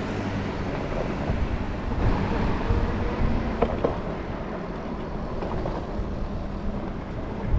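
Wind rushing over the microphone with tyre and traffic noise while riding a Super73 electric bike. Two light clicks come a little over three and a half seconds in.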